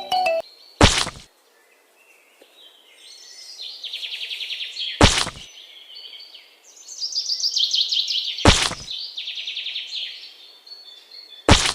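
Birds chirping in rapid, evenly pulsed trills, broken four times by a sharp knock, one every three to four seconds; the knocks are the loudest sounds.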